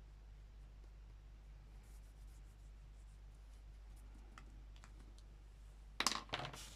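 Faint scratching and a few light clicks of hands working on a paper collage, then a brief loud rustle just before the end.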